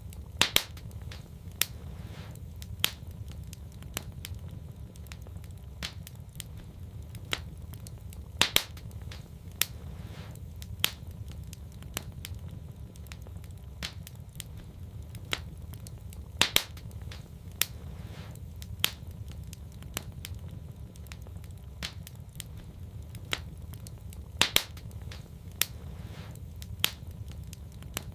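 Wood fire crackling in a fireplace: scattered sharp pops and snaps over a steady low rumble. The loudest pops come in a pattern that repeats about every eight seconds.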